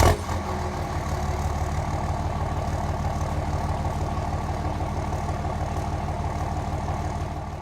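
A large engine idling steadily with a low, evenly pulsing rumble, settling just after starting.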